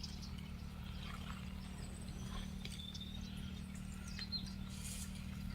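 Faint, scattered high-pitched animal chirps and squeaks over a steady low hum.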